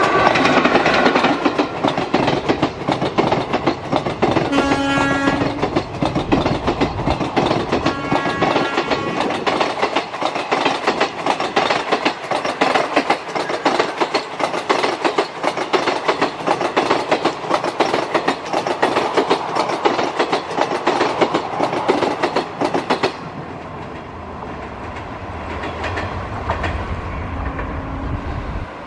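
Indian Railways electric locomotive sounding its multi-tone air horn as it passes at speed, then two short horn blasts while its passenger coaches clatter rapidly over the rail joints. About 23 s in the sound drops abruptly to the quieter rumble of a receding train, with a brief low horn note near the end.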